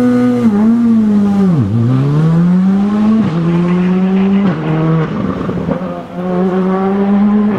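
Rally car engine revving hard: held high, it drops sharply about a second and a half in, then accelerates with the pitch climbing and falling suddenly at each gear change, several times.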